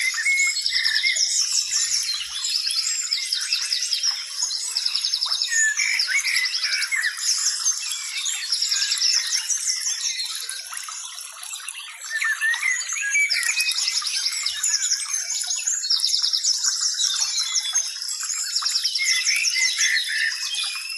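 Dense chorus of many birds chirping and calling at once, with short fast trills repeating over and over. It eases off briefly about halfway through, then picks up again.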